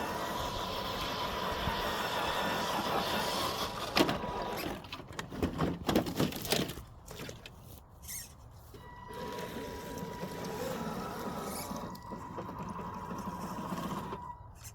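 Electric motor and gears of an FMS FJ40 RC crawler whining while it drives, with a thin steady high tone. A sharp knock about four seconds in, then a couple of seconds of clattering knocks, before the motor whine picks up again about halfway through.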